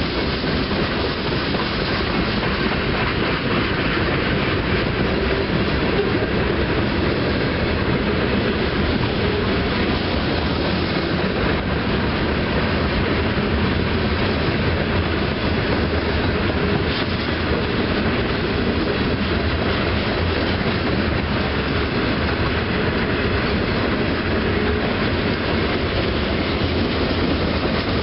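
Freight cars of a passing mixed manifest train rolling by steadily, their wheels running on the rails.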